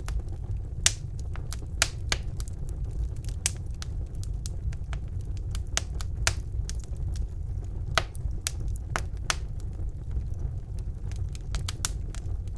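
Wood fire in a fireplace crackling and popping, with sharp irregular snaps over a low steady rumble of the flames; the loudest pops come about a second in, near two seconds, and around eight and nine seconds.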